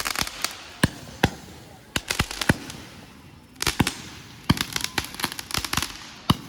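Consumer fireworks going off: clusters of sharp bangs and crackles in quick succession, with short lulls between the clusters.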